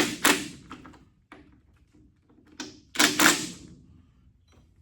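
A few sharp clacks and knocks as a cordless tool's battery pack is pulled out and a fresh one snapped in. One cluster comes at the start and a louder one about three seconds in.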